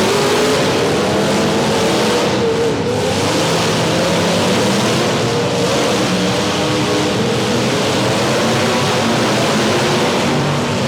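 Several demolition derby car engines revving at once, their pitches rising and falling against each other over a loud, steady din.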